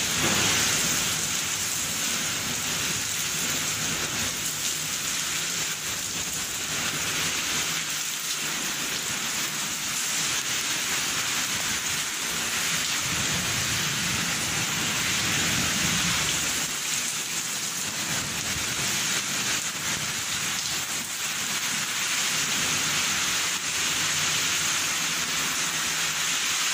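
Heavy rain pouring down steadily in a storm with strong winds, a dense, even hiss.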